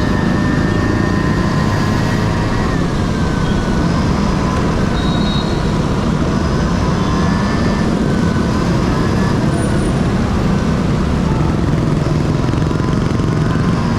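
Two-stroke Honda Dio scooter engine running on the move, its pitch rising and falling several times with the throttle over a steady rush of road and wind noise.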